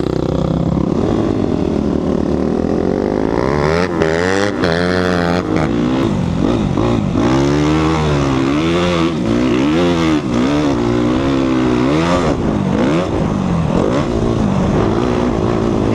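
2014 Suzuki RMZ250 single-cylinder four-stroke dirt bike engine being ridden hard, its pitch climbing and dropping over and over as the throttle is opened and closed.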